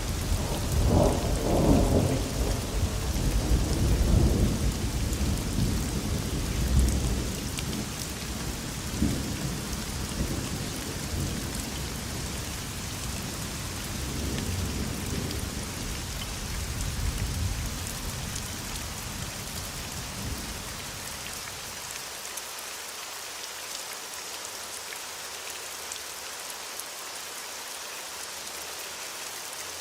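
Steady rain hissing, with a long roll of thunder that rumbles loudest in the first few seconds and fades away over about twenty seconds, leaving only the rain.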